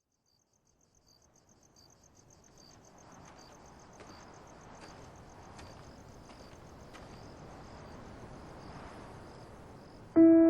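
Crickets chirping: one fast, steady high pulse with a slower, lower chirp under it, over a soft background hiss that fades in from quiet. A sustained music chord comes in right at the end.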